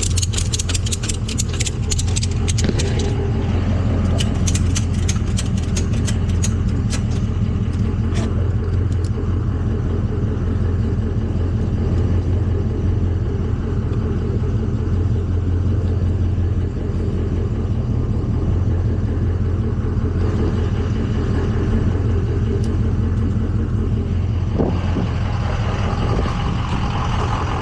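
A truck engine running steadily, with a rapid series of metallic clicks and rattles over roughly the first nine seconds.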